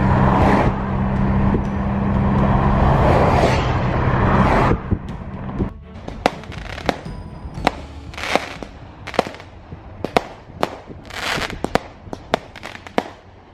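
Fireworks going off: a loud, dense stretch for the first few seconds, then, from about five seconds in, a string of separate sharp bangs and cracks with a few short fizzing hisses.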